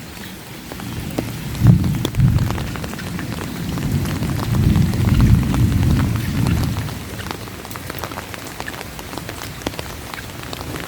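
Steady rain with scattered drops ticking close by, and a low rumble of thunder that starts with a crack about two seconds in, swells and fades away after a few seconds.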